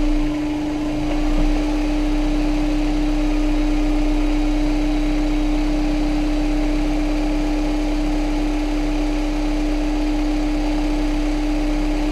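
Honda S2000's four-cylinder engine idling steadily, with a steady droning tone. It carries a slight tick that the owner puts down to the timing chain tensioner, whose internal spring is getting loose and letting the chain rattle.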